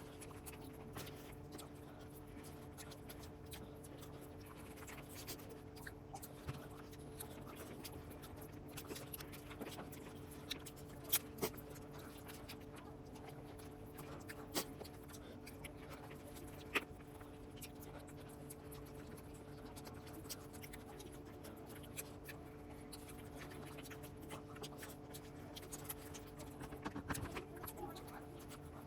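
Quiet eating sounds: scattered clicks and light scraping and rustling as biryani is eaten, over a steady low hum.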